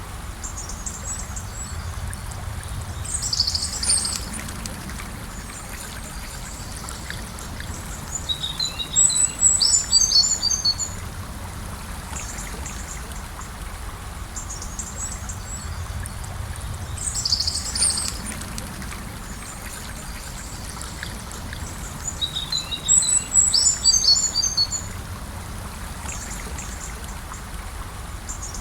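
Gentle river flowing steadily, with birds chirping over it: a short call and then a longer run of chirps, heard twice.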